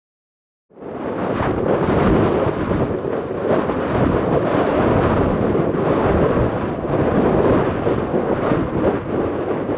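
Wind buffeting an outdoor camera microphone, a loud, uneven rumbling rush that starts abruptly under a second in.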